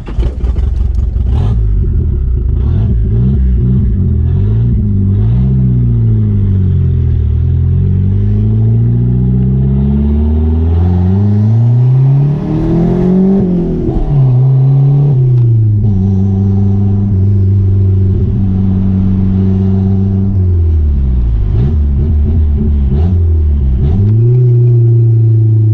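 Turbocharged G54B four-cylinder engine of a Chrysler Conquest / Mitsubishi Starion being driven hard, its revs climbing and dropping again and again, with a steadier stretch in the middle. The owner says it still runs rough and stumbles after acceleration.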